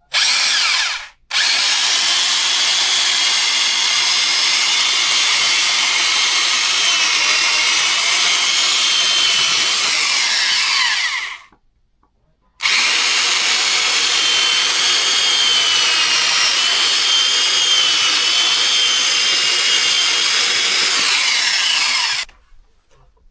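Electric power saw cutting old timber: a short burst, then two long cuts of about ten seconds each that start and stop abruptly, the motor's high whine wavering as the blade bites into the wood.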